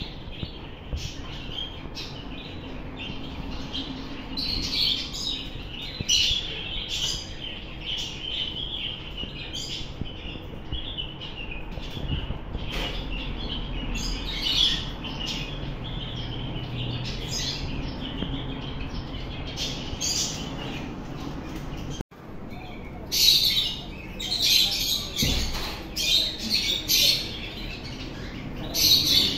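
Parrots chirping and squawking in many short, high calls. After a brief cut about two-thirds of the way through, the calls are louder and sharper.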